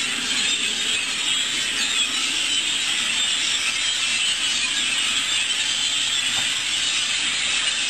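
Hundreds of birds in a flock calling all at once, a dense, continuous, loud chattering din.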